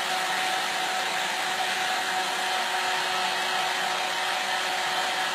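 Hairdryer running steadily, a constant blowing rush with a faint motor hum.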